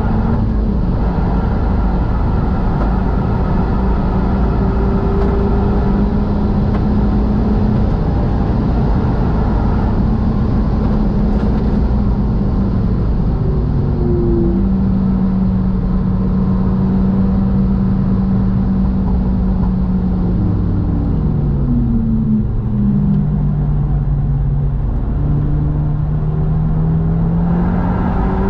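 Renault Mégane RS Trophy-R's turbocharged 1.8-litre four-cylinder heard from inside the cabin at about 180 km/h, a steady engine drone over heavy road and wind noise. Around halfway the pitch dips briefly; later it steps down several times as the car brakes and downshifts, holds lower, then rises again near the end as it accelerates.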